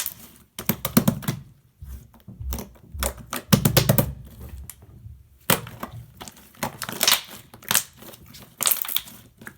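Slime being squeezed, stretched and pressed by hand, giving irregular clusters of sharp crackling clicks and squelches.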